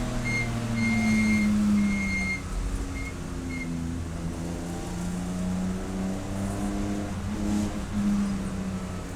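Race car engine heard from inside the car. Its note falls in pitch over the first couple of seconds as the car slows, then runs at lower, varying revs. A series of short, high electronic beeps sounds over the first few seconds.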